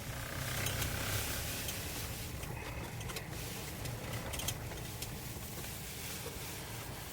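Steady low rumble of a vehicle with a hiss over it, and a few faint ticks.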